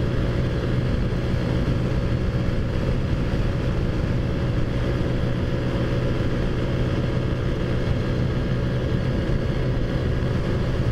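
Taotao Zummer scooter's small single-cylinder four-stroke engine, big-bore and CVT-driven, running steadily at cruising speed with a constant drone, over a low rumble of wind and road noise.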